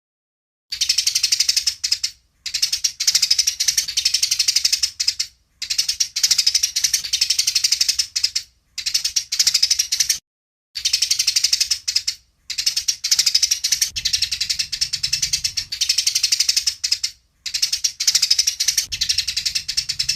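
Eurasian tree sparrow giving rapid, agitated fighting chatter, in about eight runs of a second or two each with short breaks between them.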